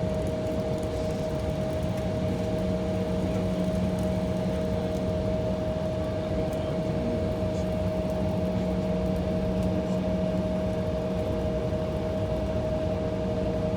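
Steady cabin hum inside an Embraer E175 waiting on the ground: its turbofan engines idling and cabin air-conditioning running, with a few steady tones over an even rush of air.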